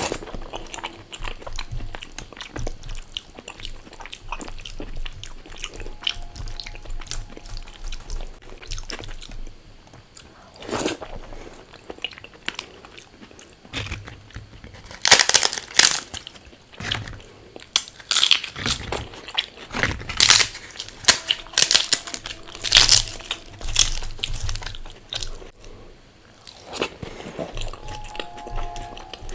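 Close-miked eating of crispy fried food: bites and crunches, with a dense run of loud crunches through the middle and later part, between stretches of quieter chewing.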